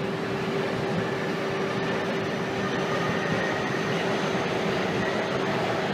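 Shinkansen train at the platform giving a steady hum with one held tone over an even rush of noise.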